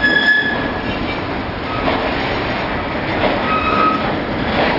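Freight train's lumber-loaded flatcars rolling past with steady wheel rumble and clicks over the rail joints. Short high wheel squeals come near the start and again past the middle.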